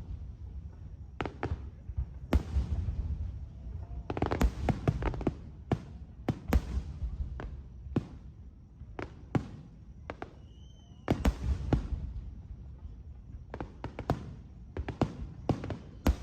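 Aerial fireworks bursting: a run of sharp bangs and crackles with dense volleys about four seconds in and again near eleven seconds, over a low rumble.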